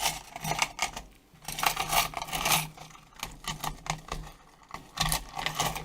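Plastic guitar plectrums clicking and clattering as they are handled and slid under the edge of a tablet's glued glass screen: a run of light, irregular clicks and taps, busiest about two seconds in and again near the end.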